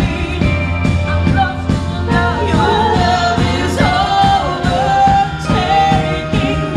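Live worship band music with singing: a sung melody held over a steady drum beat and bass.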